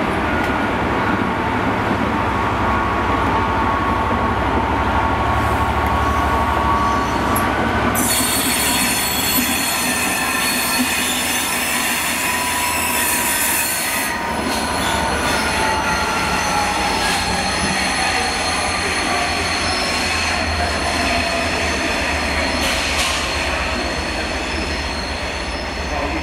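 Passenger train running past and pulling away over the station's curved track. Its wheels squeal high and loud for several seconds from about eight seconds in, and a whine falls in pitch as it draws away.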